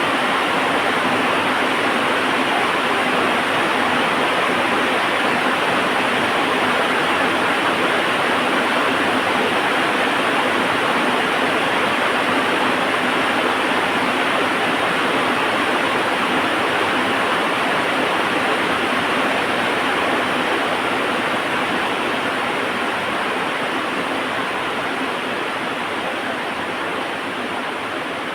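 Heavy rain falling in a steady, dense hiss, slowly fading in the last several seconds.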